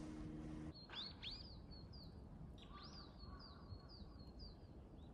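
Small birds calling in snowy trees: a faint, rapid series of short high chirps, about three a second.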